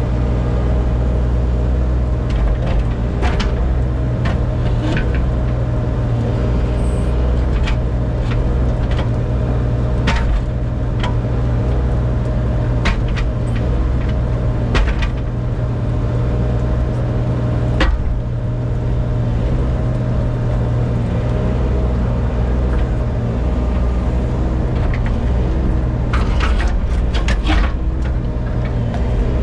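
Engine of a compact excavator running steadily at a constant speed, with scattered sharp clanks and knocks as it works.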